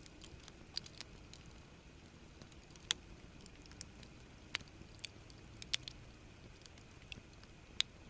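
Campfire wood crackling, with scattered sharp pops at irregular intervals over a faint background.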